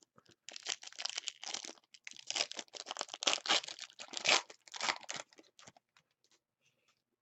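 Plastic-foil trading card pack wrapper being torn open and crinkled: a crackling rustle lasting about five seconds that dies away near the end.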